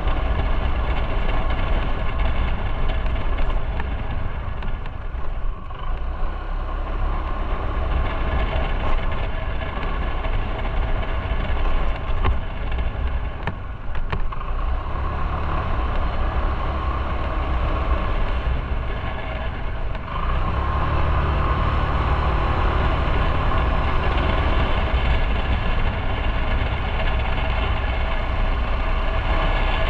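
Motorcycle engine running under way, with brief dips in level about 5 and 14 seconds in and a steadier, stronger drone from about 20 seconds on.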